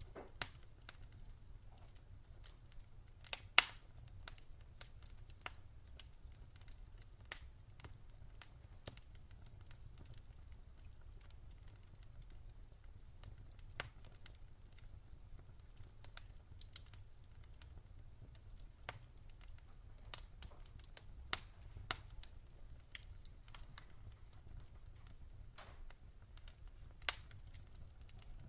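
Campfire crackling: irregular sharp pops and snaps, one much louder about three and a half seconds in, over a faint steady low rumble.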